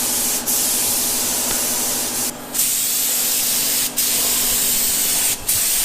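Paint spray gun spraying: a steady hiss, cut by brief gaps about four times.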